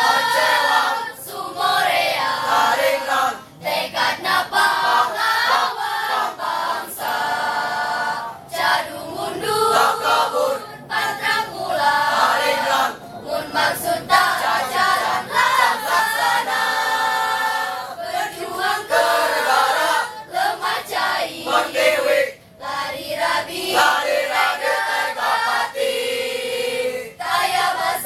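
Junior-high-school choir of young voices singing together in phrases, with short breaths between lines.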